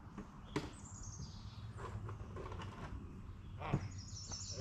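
Small birds singing: a falling run of high chirps just after half a second in, and a quick series of high chirps near the end. Two sharp knocks stand out, the louder one near the end.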